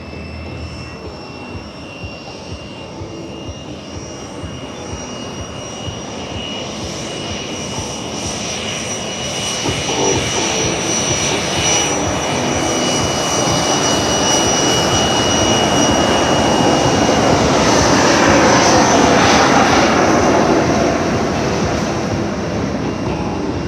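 F-15C Eagle's twin Pratt & Whitney F100 turbofan jet engines approaching: a high whine over a roar that grows steadily louder. The roar is loudest about three quarters in, as the whine fades, then eases slightly.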